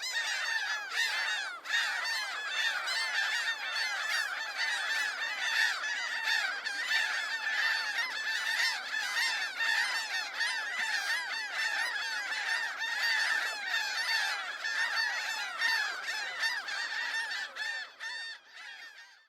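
A large flock of birds calling all at once: a dense, unbroken mass of many overlapping honking calls that cuts off suddenly near the end.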